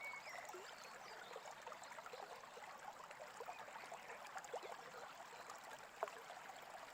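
Faint, steady trickle and babble of a small stream, with a short bird whistle at the very start.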